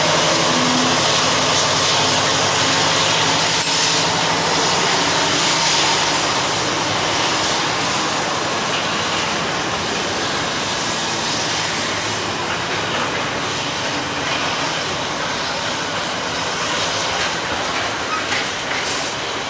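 A train running past close by: a low engine drone in the first few seconds gives way to a steady rumble and hiss of wheels on the rails, slowly easing.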